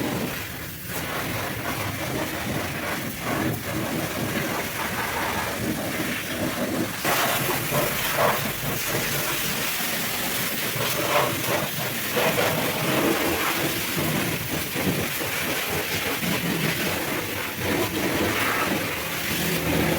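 High-pressure washer jet spraying water in a steady hiss, turning harsher and brighter about seven seconds in.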